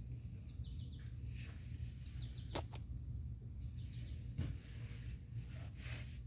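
Quiet outdoor background: a steady high insect drone with short chirps every second or so over a low hum. A single sharp click comes about two and a half seconds in.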